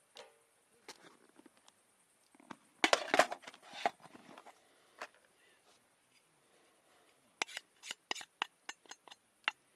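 Camp gear being handled by hand: a loud clattering rustle about three seconds in, then a quick, irregular run of sharp clicks and taps near the end.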